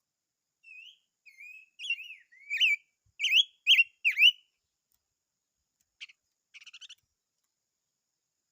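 A songbird singing a phrase of clear whistled notes that sweep up and down, getting louder over about four seconds, followed a couple of seconds later by a brief, faint chattering call.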